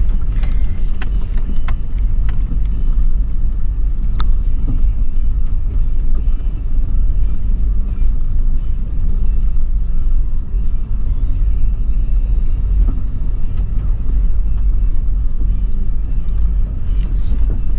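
Steady low rumble of a 2013 Toyota 4Runner SR5's V6 engine and drivetrain driving on sand, heard from inside the cabin, with a few light clicks and rattles.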